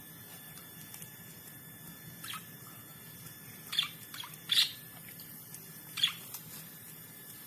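Budgerigars giving four short, sharp chirps spread over a few seconds, the loudest in the middle.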